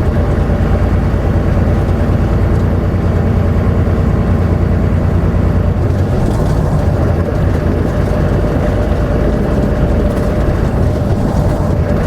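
Semi-truck's diesel engine running steadily under way, with road noise heard from inside the cab as a constant low drone and a faint steady whine.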